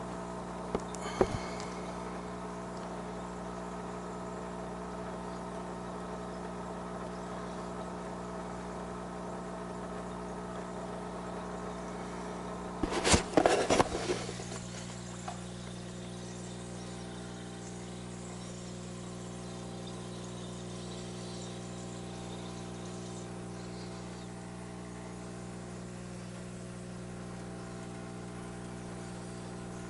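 A steady machine hum runs throughout, with a short burst of clattering noise about 13 seconds in.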